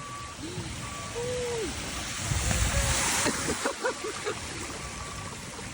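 Vehicle driving through deep floodwater, water sloshing and washing against it, with a louder surge of splashing about two to three seconds in. A faint electronic beep repeats on and off behind it.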